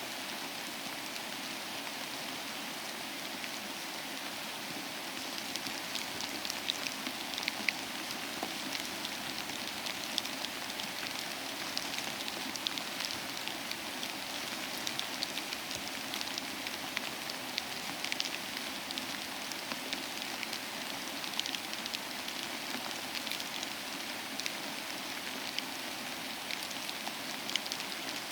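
Steady rain falling, an even hiss with many separate drops ticking on a hard surface, the drops becoming more distinct after the first few seconds.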